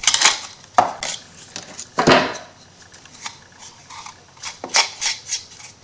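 Handling of paper and wooden craft pieces on a tabletop: scattered light knocks and rustles, a louder knock about two seconds in, and a quick run of light clicks near the end.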